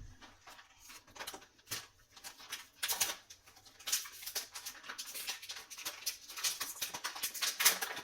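Microfiber cloth wiping across a smartphone's glass screen: a quick, irregular run of short rubbing swishes.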